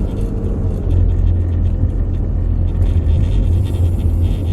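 Steady low rumble of a car's engine and tyres, heard from inside the cabin as the car moves slowly.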